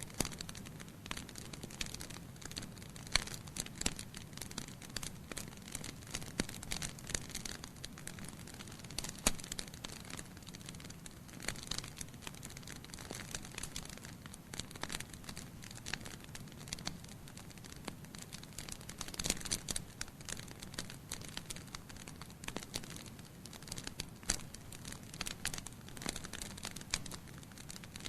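Wood fire burning in a fireplace: logs crackling and popping irregularly over a soft steady hiss of flame, with a few sharper snaps.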